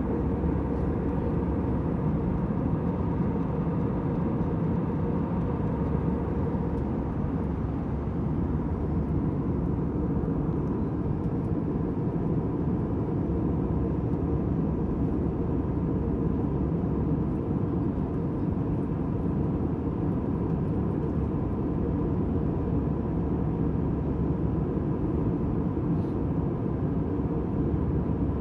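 Steady airliner cabin noise in flight: a low, even rushing drone with a faint steady hum.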